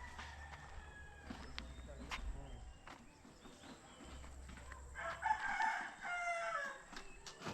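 A rooster crowing once, about five seconds in, its call falling in pitch at the end.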